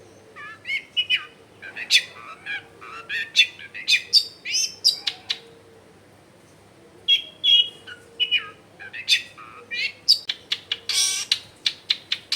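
Long-tailed shrike (cendet) singing a rapid, varied song of short chirps, whistles and harsh notes, in two runs with a pause of about two seconds between them and a loud scratchy burst near the end.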